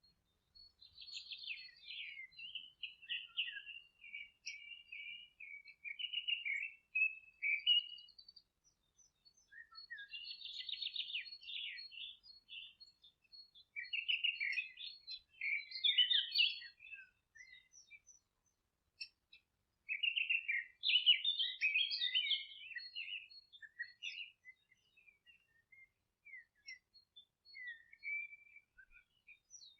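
Songbirds singing on a meadow: four twittering, trilling phrases of several seconds each, with short pauses between them.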